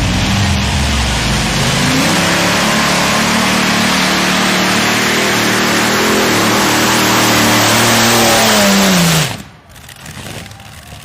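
Modified-class pulling tractor's engine running at full power under load. Its pitch climbs early on and holds, then sags and cuts off sharply about nine seconds in as the pull ends, leaving a quieter idle.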